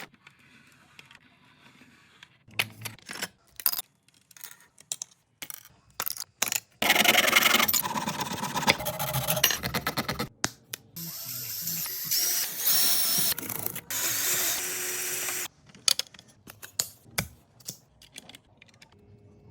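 Scattered clicks and knocks of small parts being handled, with a small motor running in two stretches of several seconds each, the first starting about a third of the way in.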